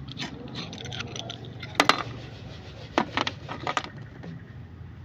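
Small metal parts clicking and knocking as they are handled: two sharp clicks a little under two seconds in, then a quick cluster of knocks about a second later.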